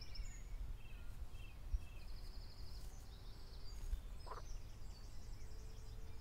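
Birds chirping and trilling at intervals, with one lower rising call about four seconds in, over a steady low outdoor rumble.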